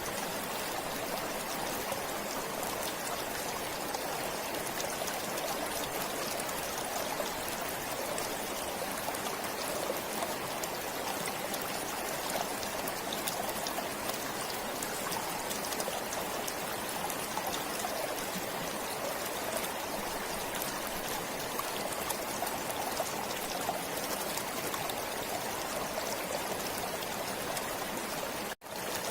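A forest stream flowing steadily, an even rush and trickle of water that cuts out for a split second near the end.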